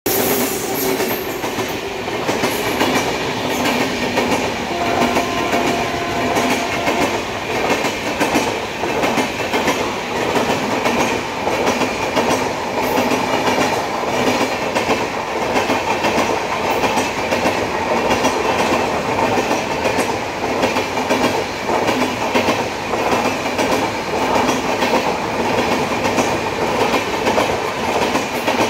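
An Indian Railways express train of LHB coaches running past close by. The wheels on the rails make a steady rush, with continuous clickety-clack clicking over the rail joints.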